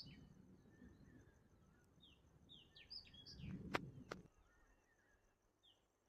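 Faint birdsong: short high chirps repeating in small groups. A little past halfway there is a low rumble and two sharp clicks.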